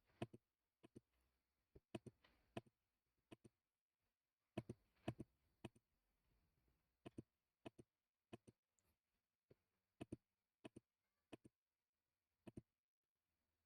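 Computer mouse clicking: sharp, separate clicks, often in close pairs, at irregular gaps of about half a second to a second, over near-silent room tone.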